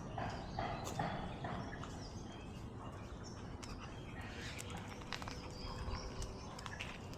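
Birds chirping with short, repeated calls over a steady low background noise.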